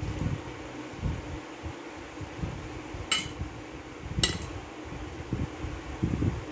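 Close-up eating: chewing with soft, irregular low mouth sounds, and a metal fork clinking twice on a ceramic plate, about three seconds in and again a second later.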